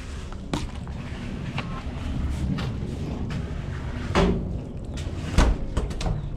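Scattered knocks and clatters, the two loudest about four and five and a half seconds in.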